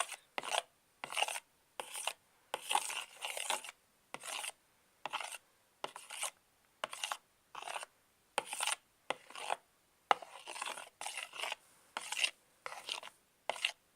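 Clear glue tinted blue with glitter being stirred in a container, a scraping rub with each stroke, in short strokes roughly two a second with brief pauses between.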